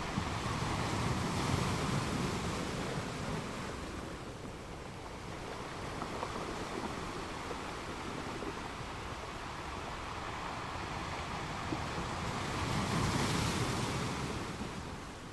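Sea waves washing onto the shore, a steady rush that swells twice, once near the start and again near the end.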